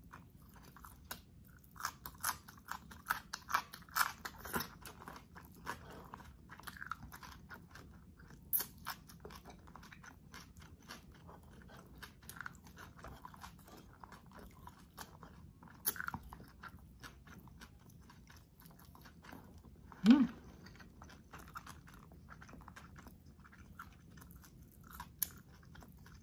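Close-miked eating sounds: chewing and crunching spicy garlic buttered shrimp, with wet mouth clicks, busiest in the first few seconds and sparser after. About twenty seconds in comes one short rising hum from the eater's voice.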